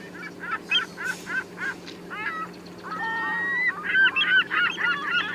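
Geese honking: short separate calls at first, then many overlapping calls from about four seconds in, as from a flock. A steady electrical hum runs underneath.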